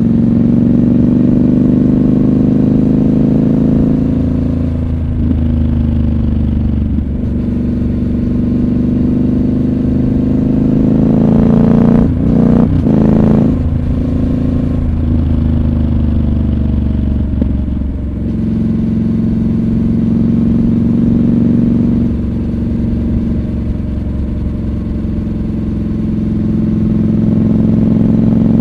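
Triumph Scrambler 1200 XC's parallel-twin engine running under way, its revs rising and falling with throttle and gear changes, with a quick run of rev changes about halfway through.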